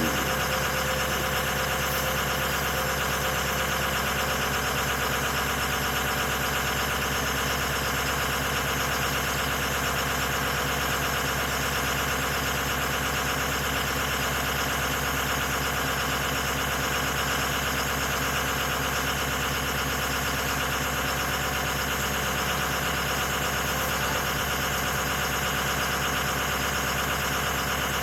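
2006 Ford F-250's stock 6.0 L Power Stroke V8 turbo-diesel idling steadily as it warms up after a cold start.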